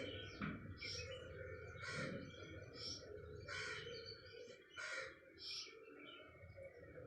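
A bird calling repeatedly, short calls about once a second.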